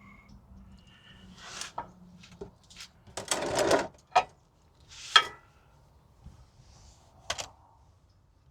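Tools and metal parts being handled: a string of sharp clanks and knocks, with a short scraping rush about three seconds in.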